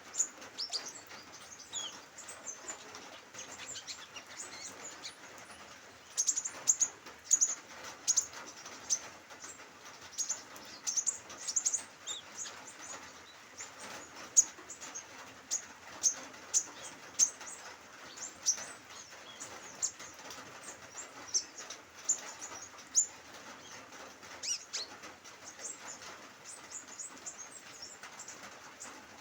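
Sunbird chirping: many short, high-pitched chirps, some in quick runs, over the steady hiss of light drizzle.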